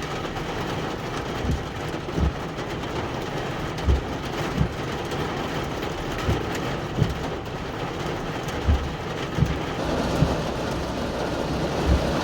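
Steady rain falling, with footsteps thudding at a walking pace, often in pairs.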